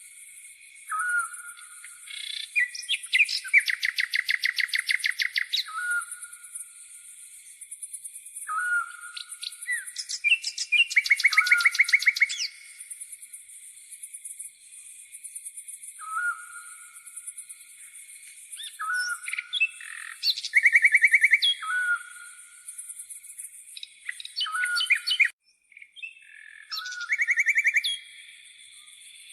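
Songbirds singing: short rising whistled notes every few seconds and four loud, fast, rapidly pulsed trills, each lasting a second or two. Underneath runs a steady, high, pulsing buzz of grasshoppers.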